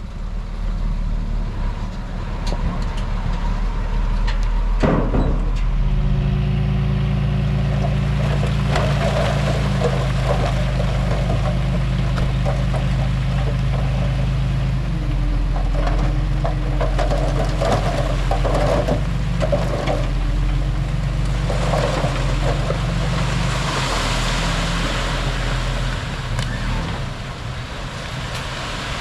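Heavy diesel engine of earthmoving machinery running steadily under load, its pitch shifting a few times, with bursts of metallic rattling and clanking and one sharp knock about five seconds in.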